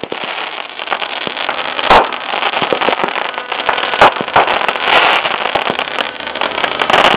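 Fireworks going off: a dense, steady crackling of sparks, broken by two sharp bangs, about two and four seconds in, and many smaller cracks.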